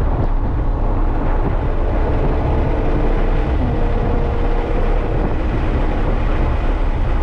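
Porsche 911 GT3's naturally aspirated 4.0-litre flat-six running at track pace, heard from inside the cabin. It holds a fairly steady note over loud tyre and road rumble.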